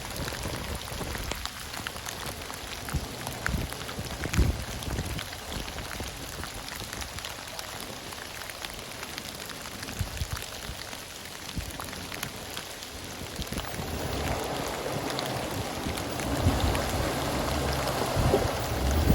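Steady rain falling, with many scattered drops tapping. In the last few seconds a louder rushing sound and a low rumble build up.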